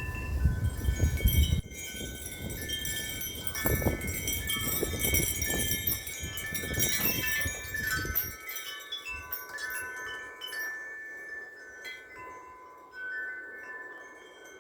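Wind chimes ringing continuously in gusting wind, many overlapping clear tones. For the first eight seconds or so, wind buffets the microphone with a low rumble, which then drops away, leaving the chimes ringing more sparsely.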